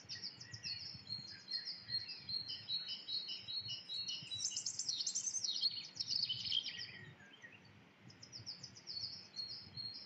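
Small birds chirping and singing in the background: many quick, high chirps and short trills overlapping, busiest and loudest around the middle, thinning out for a moment near the end.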